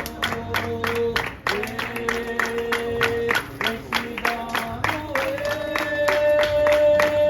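Singing of a festive song with long held notes over a steady percussive beat of about four strikes a second.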